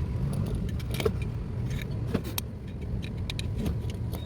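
Scattered light metallic clinks and rattles from hand tools and equipment being handled, over a low steady rumble.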